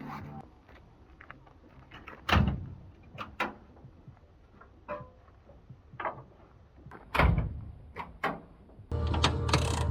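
Metal tools and car parts being handled during front-end repair work: scattered knocks and clicks, with two heavy clunks about two and a half and seven seconds in. A steady sound of several held tones starts just before the end.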